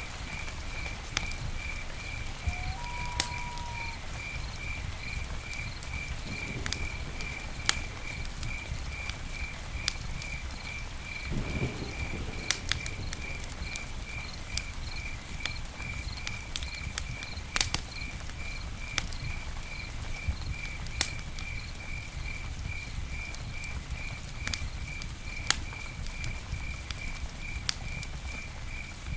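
Campfire burning, with irregular sharp crackles and pops over a low steady rumble of flames. A cricket chirps steadily, about two to three chirps a second.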